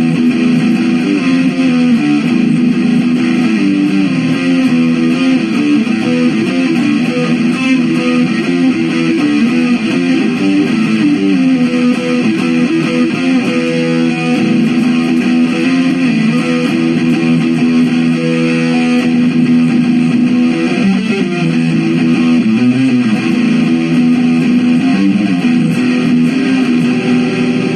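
Electric guitar being played, a dense, continuous stream of shifting notes and chords.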